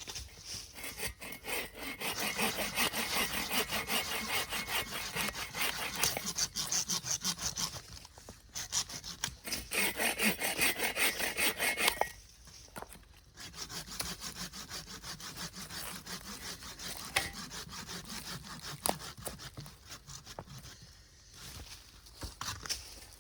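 Hand saw cutting through wood with steady back-and-forth strokes, loudest in the first half, then a short pause about twelve seconds in and lighter sawing after it.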